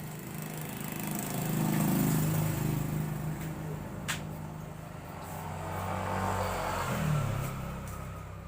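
Motor vehicle engine sound that swells and fades twice, with a sharp click about four seconds in.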